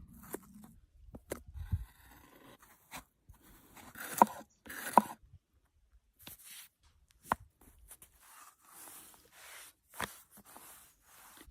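Food-preparation handling sounds: irregular scraping and rustling with sharp knocks, like cutting on a board. The two loudest knocks come about four and five seconds in.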